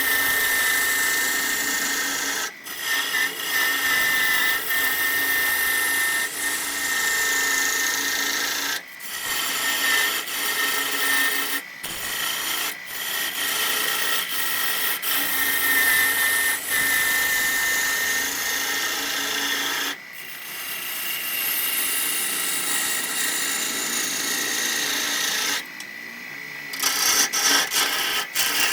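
Wood lathe running with a tool working the spinning wood: a steady high whine under a hissing scrape, broken several times by brief sudden gaps.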